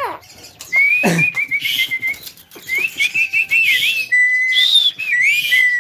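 Javan myna whistling: a string of clear whistles held near one pitch, broken by quick flicked notes and short trills, with a sharp falling squeak about a second in.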